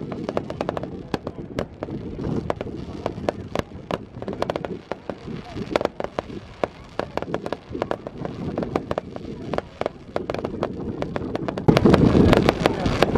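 Fireworks going off in a rapid, irregular run of sharp cracks and bangs. A low rumbling noise runs under them, and everything gets suddenly louder about a second and a half before the end.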